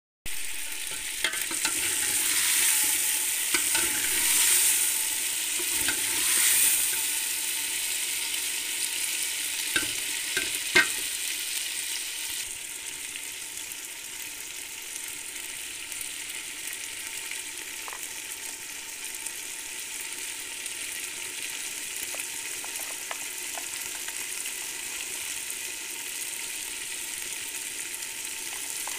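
Chicken pieces sizzling in a metal cooking pot while being stirred with a metal spoon. The sizzle swells with each stir in the first few seconds. A few clinks of the spoon against the pot come about ten seconds in, then an even sizzle.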